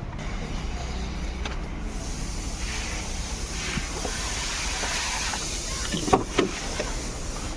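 A car engine running, with a steady low hum and a hiss over it from about two seconds in. A few brief sounds come near the end.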